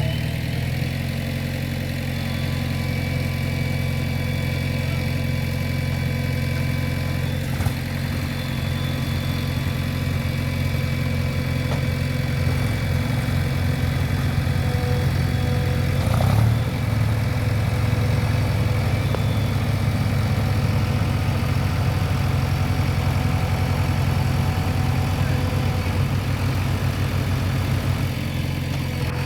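Heavy diesel engine running steadily at low revs, with a brief knock about sixteen seconds in.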